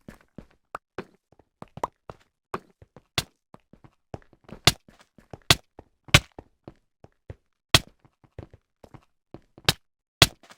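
A string of sharp knocks and thunks at uneven intervals, about one to three a second, with the loudest ones coming in the second half.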